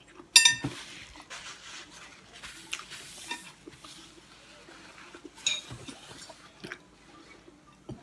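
Crunchy chewing and biting of a crisp, breadcrumbed deep-fried crust on a potato-and-cheese-wrapped sausage. A sharp ringing clink comes about a third of a second in, and a louder crunch about five and a half seconds in.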